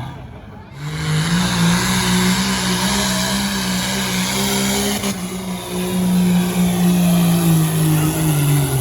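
A pulling truck's engine at full throttle during a truck pull run: the revs climb sharply about a second in, hold high and steady under load, then fall away near the end.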